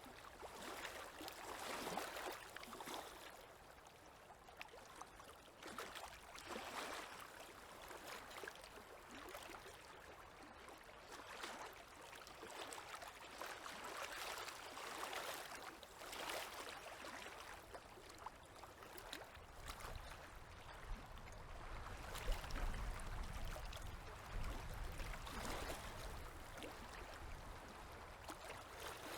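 Small river waves lapping at the shore, with soft swells of splashing every few seconds. A low rumble joins in for several seconds past the middle.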